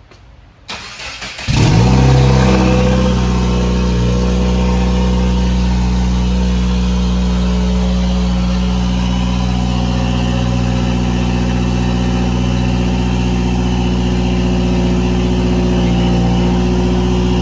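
Subaru WRX's turbocharged 2.0-litre flat-four cranked on the starter for about a second, then catching with a brief flare and settling into a steady, loud idle. It is the first start on the new stage 2 setup, run with an open downpipe that is not joined to the cat-back exhaust.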